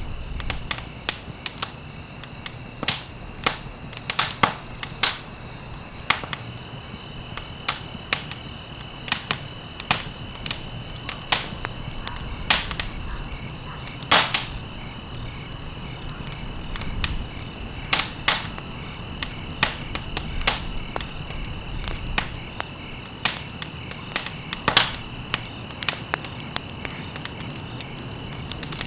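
Wood fire crackling in a fireplace: irregular sharp pops and snaps, a few much louder than the rest, over a steady low rumble of the burning fire. A steady high-pitched ringing tone runs behind it.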